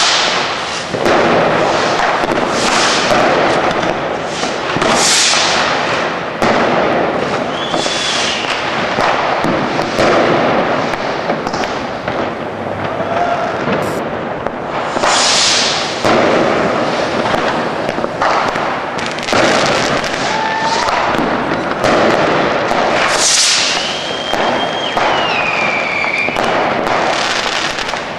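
Fireworks going off without pause: a dense barrage of firecracker cracks and bangs, with several hissing rockets and a few whistles that glide down in pitch.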